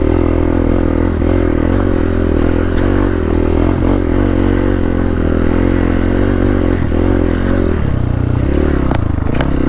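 Hero Xpulse 200's single-cylinder motorcycle engine running steadily under way, its note shifting about eight seconds in.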